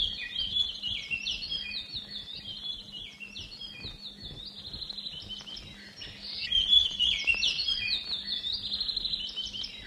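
Small birds chirping and twittering continuously, a busy run of quick rising and falling chirps that grows louder about six and a half seconds in, over a faint steady hum.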